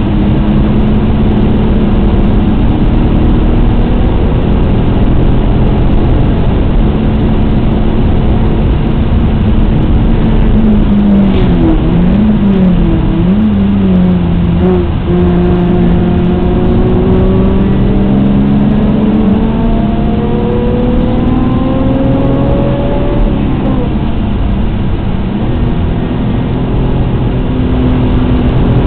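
Alfa Romeo GTA's 3.2-litre V6 heard from inside the cabin at track speed. The engine holds a steady note at first, then dips and blips a few times as the driver brakes and downshifts. It then pulls through a long climb in pitch, up to a shift, over constant road and wind noise.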